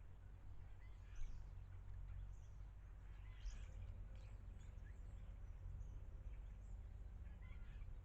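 Garden birds giving scattered short chirps over a steady low rumble of outdoor background noise.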